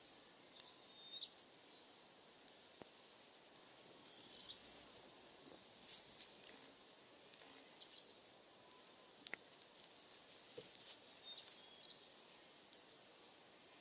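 Wood fire crackling faintly, with irregular sharp pops and snaps. A few short high chirps come through now and then.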